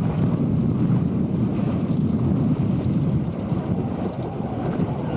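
Wind buffeting the microphone aboard a sailboat under way, with water rushing along the hull: a steady, deep rushing noise.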